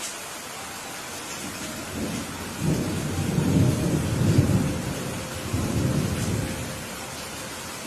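Steady rain with a roll of thunder: a deep rumble begins about two seconds in, builds to its loudest around the middle, and dies away near the end.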